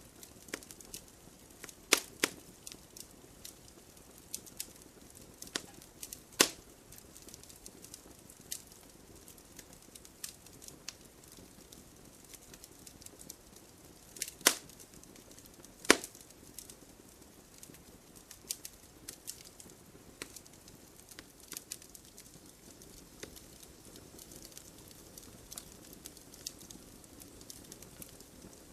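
Wood campfire crackling: a continual scatter of small pops and snaps over a soft low hiss of the flames, with a few much louder sharp cracks, two of them close together a little past the middle.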